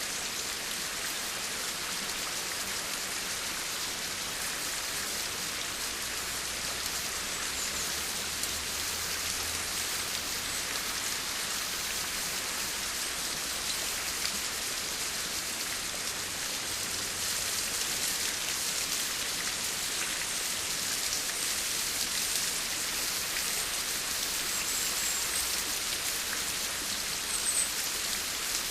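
Steady rain falling: a dense, even hiss of drops with scattered sharper drop ticks, growing slightly louder in the second half.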